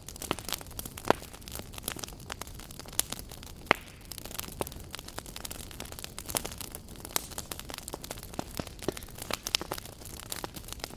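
Wood fire burning in a fireplace: frequent irregular sharp crackles and pops over a steady low rush of flame, with a few louder pops about a second in and near four seconds.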